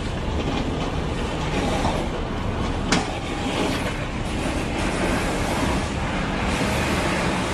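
Steady rumbling noise of a truck running, with one sharp click about three seconds in.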